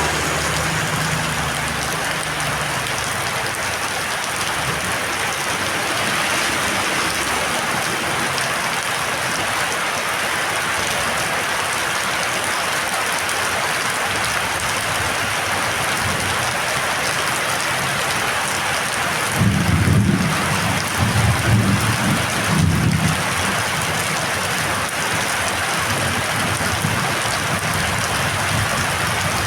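Heavy storm rain pouring steadily. A low, irregular rumble surges for a few seconds about two-thirds of the way through.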